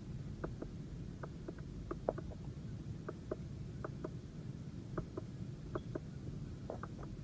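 Steering-wheel control buttons of a Mercedes-Benz ML350 being pressed over and over, giving short, sharp clicks, often in quick pairs, over a faint steady hum.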